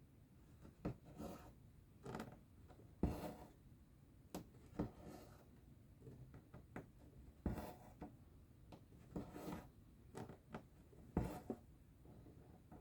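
Cross-stitch needle and thread worked through fabric: sharp little pops as the needle pierces the cloth and short soft swishes as the thread is drawn through, repeated at an uneven pace.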